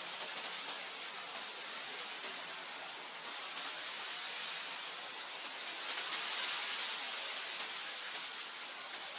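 Wind blowing through grass: a steady hiss that swells a little about six seconds in and eases again.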